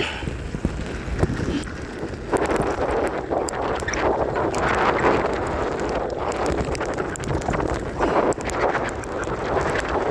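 Electric mountain bike ridden along a rough off-road track: steady tyre noise and small rattles, louder from about two seconds in, with wind buffeting the microphone.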